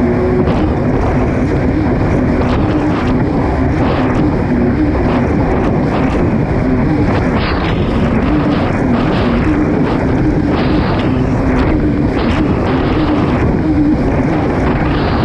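Kawasaki STX-160 jet ski's four-stroke engine running hard at racing speed, its pitch rising and dipping again and again as the throttle and load change, over a dense rush of wind and water.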